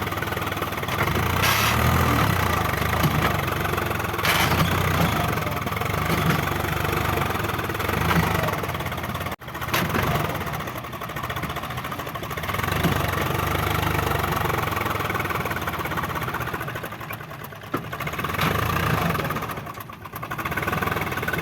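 Swaraj 744 tractor's three-cylinder diesel engine running, its level rising and falling, with a brief cut-out about nine seconds in.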